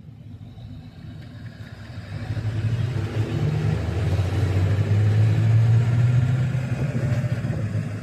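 A motor vehicle's engine, a low steady drone that grows louder over a few seconds and then drops off abruptly near the end.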